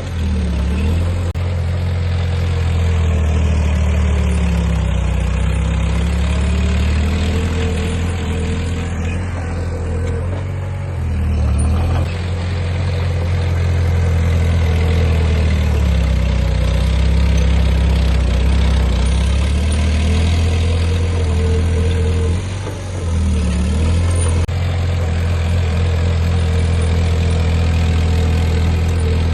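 Heavy diesel earthmoving machinery running, its engine speed slowly rising and falling as it works under load.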